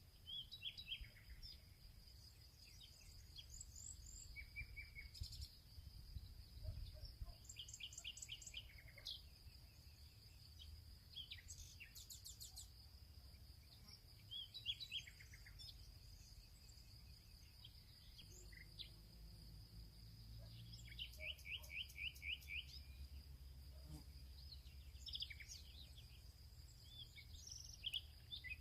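Songbirds chirping and trilling in short, scattered phrases, including a fast run of repeated notes about two-thirds of the way through, over a steady high insect drone and a low rumble, all faint.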